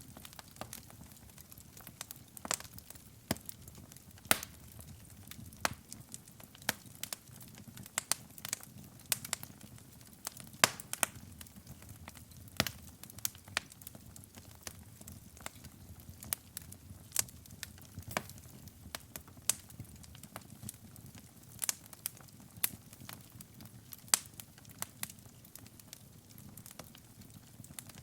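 Wood fire burning in a fireplace: sharp, irregular crackles and pops, several a second, over a soft low rumble of the flames.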